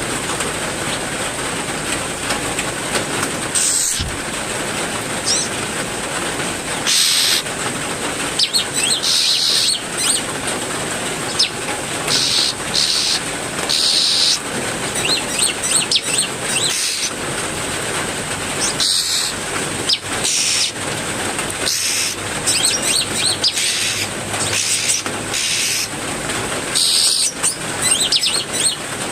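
Steady heavy rain with many small aviary songbirds chirping and calling in short bursts over it.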